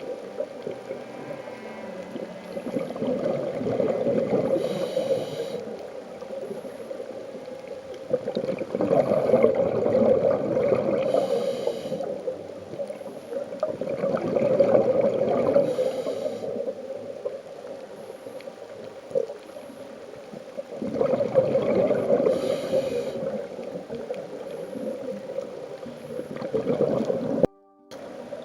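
Scuba diver's breathing heard underwater through a waterproof compact camera's microphone: exhaled bubbles gurgle and rumble in swells about every six seconds, with short hisses between them. The sound cuts out briefly near the end.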